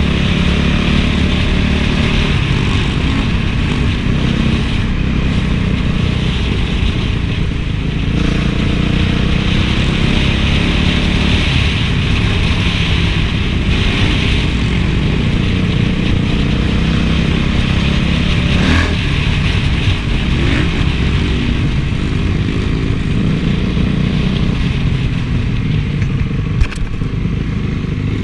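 Honda CRF450 four-stroke single-cylinder motocross engine running while the bike is ridden, its pitch rising and falling with the throttle. A couple of short sharp knocks come through, one about two-thirds of the way in and one near the end.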